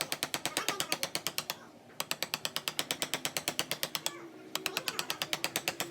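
Rapid, even mechanical clicking, about ten clicks a second, stopping briefly twice.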